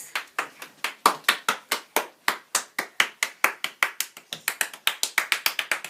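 Hand clapping at the end of a performance: a steady, even run of sharp claps, about five a second.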